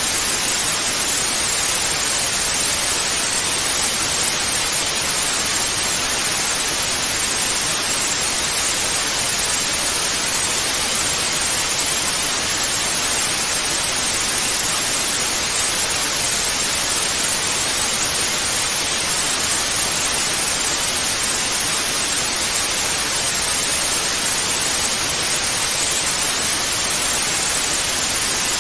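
Television static hiss: a steady, unchanging hiss weighted toward the high end, with no breaks or events.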